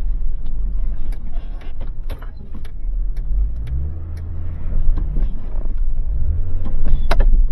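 A vehicle engine running at low speed while manoeuvring, with a low rumble and the revs rising twice, about three and a half and six seconds in, over scattered knocks and clicks.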